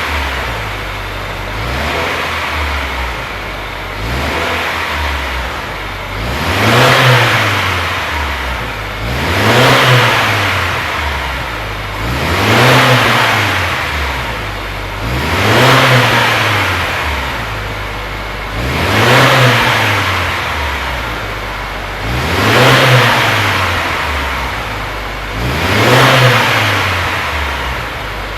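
Subaru WRX S4's turbocharged flat-four engine blipped again and again through a Kakimoto aftermarket muffler: a few light revs, then about seven stronger revs roughly every three seconds, each rising and dropping back.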